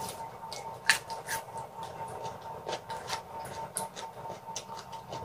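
Close-up chewing of raw, crisp Chinese bamboo shoot: a run of irregular wet crunches and mouth clicks, the sharpest about a second in.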